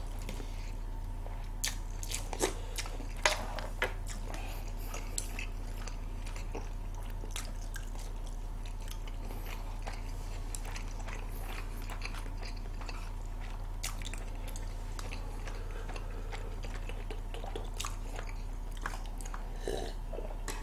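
Close-miked chewing and crunching of mouthfuls of lettuce-wrapped pig's trotters and boiled pork, with scattered light clicks of chopsticks against plastic food containers, over a steady low electrical hum.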